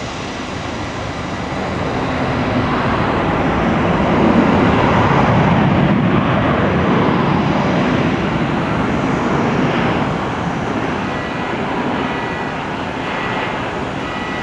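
Aircraft engines roaring as a plane passes, swelling to a peak about five seconds in and then easing off.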